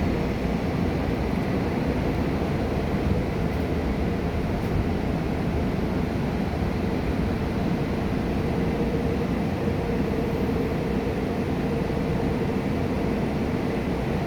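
Busan Metro Line 1 subway train running along the track: a steady rumble of wheels and running gear with a constant hum, with no stops or starts.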